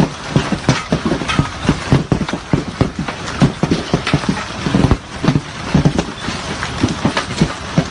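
Hailstones pelting hard surfaces in a hailstorm: a dense, irregular clatter of sharp knocks, several a second.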